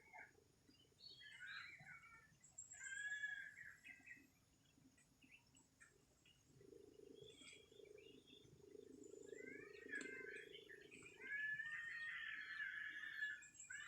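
Birds calling in a morning village chorus: repeated short chirping and warbling phrases, loudest about three seconds in and again near the end. A faint steady low drone sounds underneath from about six to eleven seconds in.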